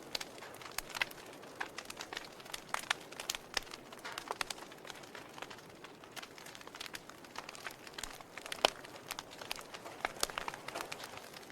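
Wood fire in a fireplace crackling: irregular sharp pops and snaps from burning logs over a steady hiss, with one louder pop about three-quarters of the way through.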